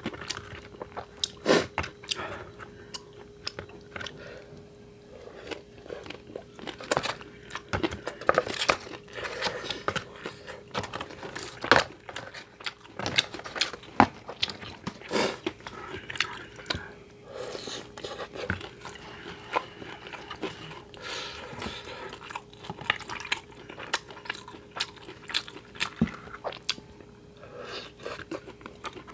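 Close-miked eating: chewing and biting of spicy tteokbokki rice cakes and fried snacks, with wet mouth sounds and crunches. Many short clicks of chopsticks against the takeout containers are scattered throughout, over a faint steady hum.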